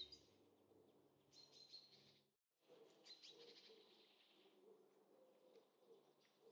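Very faint birdsong: small birds chirping in short repeated bursts, with a moment of dead silence about two and a half seconds in.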